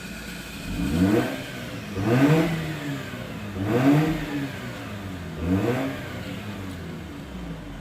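Mazda RX-8's twin-rotor rotary engine revved four times through an aftermarket valved exhaust, each blip climbing and falling back to idle.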